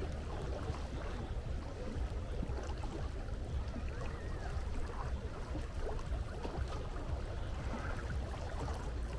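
Steady seashore ambience: a continuous low rumble of sea and wind, with faint short sounds scattered over it.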